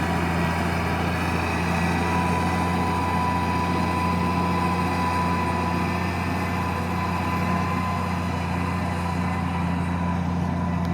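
Valtra tractor's diesel engine running steadily at a constant speed, with no revving. A faint steady whine joins the engine hum about two seconds in.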